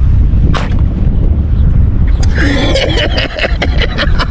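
Strong wind buffeting the microphone in a loud, steady low rumble, with a sharp click about half a second in and a brief voice-like sound from about halfway.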